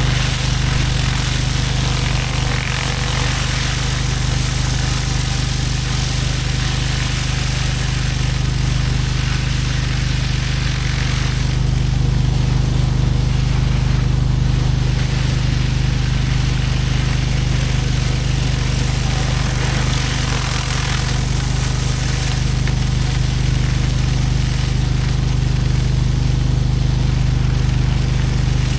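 Pressure washer engine running steadily under load, with the even hiss of high-pressure water spraying from a surface cleaner.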